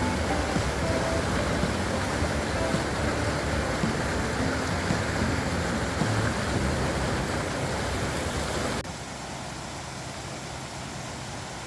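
Creek water rushing steadily. About nine seconds in it drops suddenly to a quieter, softer flow.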